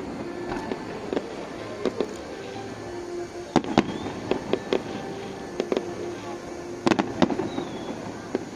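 Fireworks display: aerial shells bursting with sharp, irregular bangs, bunching into quick clusters about three and a half seconds in and again about seven seconds in, over steady background music.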